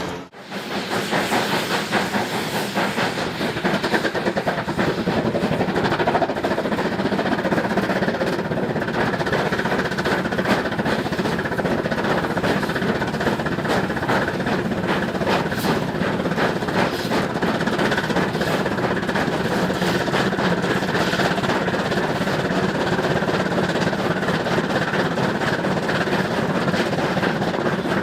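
A train running on the track: a steady rattle and hiss thick with fine clicks, holding one level throughout.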